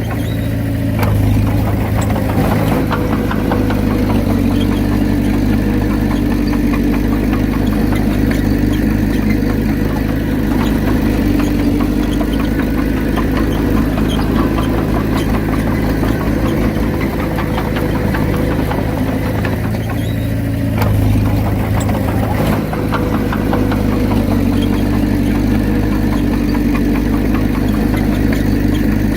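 Diesel engine of a Komatsu D31P bulldozer running steadily, swelling briefly about a second in and again around twenty-one seconds.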